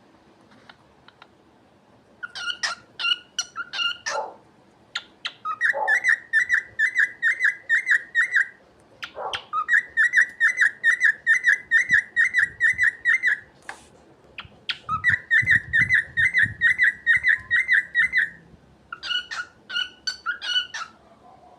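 Cockatiel singing: five phrases of rapid, repeated whistled chirps, about five a second, each phrase lasting a few seconds with short pauses between.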